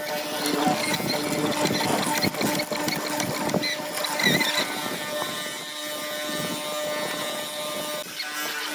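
Woodworking machinery running with a steady hum, along with knocks and rattling of wood being worked.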